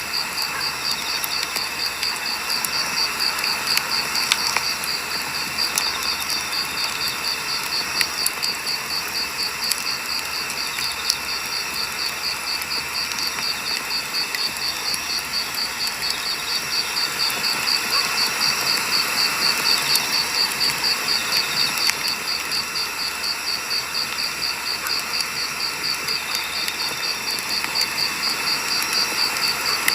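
Firewood burning in a campfire, crackling with scattered sharp pops. An insect chirps in a steady, evenly pulsing rhythm throughout.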